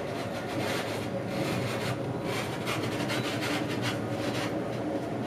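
Running noise of a Deutsche Bahn Intercity train heard inside the coach: a steady rumble, with irregular bursts of higher scratchy hiss coming and going through the middle.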